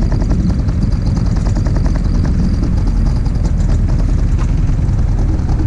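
Suzuki-built 2 hp Spirit two-stroke outboard motor running steadily, a fast, even pulsing over a heavy low rumble.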